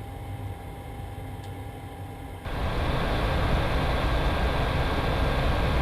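Steady aircraft noise from the C-17 Globemaster III's running turbofan engines: a hum with a few steady tones, then, about two and a half seconds in, a sudden jump to a much louder, fuller jet rush that holds steady.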